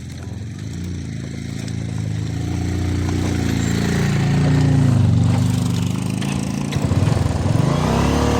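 Motorcycle engine running as the bike gets under way, its pitch rising and falling with the throttle and growing louder over the first few seconds.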